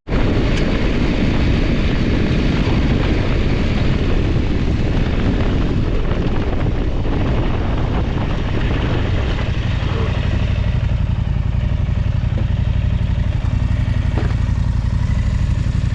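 Large adventure motorcycle engine running steadily while riding.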